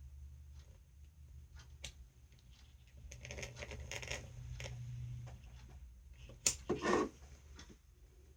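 Small scraping and clicking handling sounds of a knife cutting and prying cured silicone sealant away from a circuit board in its plastic housing, with a denser scratchy stretch in the middle and a louder scrape and snap about six and a half seconds in.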